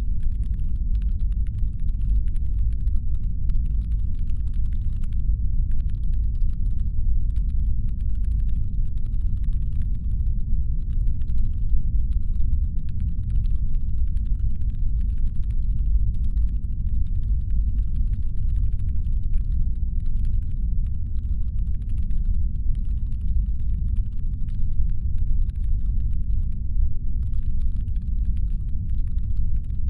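Deep, steady brown-noise rumble standing in for a spaceship's engine hum. Over it, faint rapid irregular clicking like keyboard typing comes in stretches broken by short pauses.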